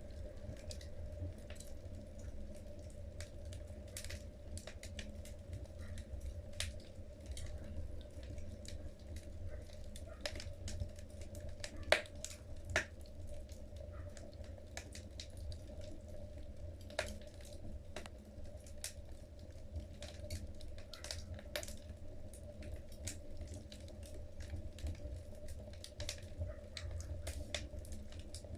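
Wood fire in a fireplace crackling: burning logs give irregular pops and snaps over a low steady rumble, with the sharpest pop about twelve seconds in.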